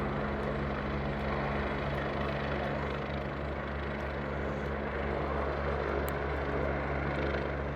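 Life flight medical helicopter flying overhead, its rotor and turbine making a steady, pulsing drone.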